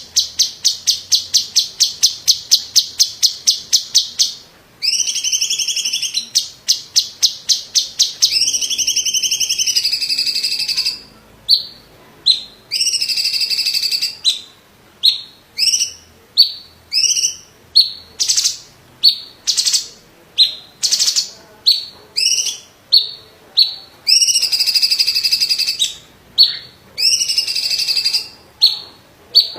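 A cucak ijo (green leafbird) singing loudly in high, varied phrases. There are fast rattling trills of about five repeated notes a second lasting a few seconds, then swooping, wavering whistles, then runs of short sharp chips spaced about a second apart.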